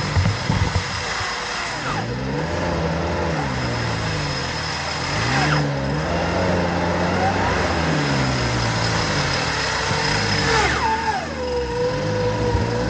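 Off-road 4x4's engine revving up and down again and again, its pitch rising and falling every couple of seconds as it works through an obstacle. Near the end a higher whine glides down and then holds steady.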